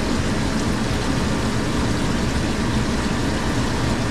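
Hoshizaki ice machine running steadily on its newly replaced compressor, a steady mechanical hum and whoosh of compressor and fan: the unit is running normally and moving heat.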